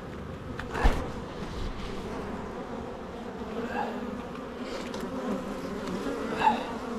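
A mass of honeybees buzzing steadily around an open hive while its frames are inspected. There is a sharp knock about a second in, and a single bee buzzes louder and close by near the end.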